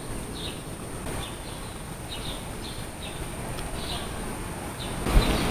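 Small birds chirping: short, high, slightly falling chirps repeating irregularly, about two a second, over a low steady rumble of background noise. A louder rush of noise comes in near the end.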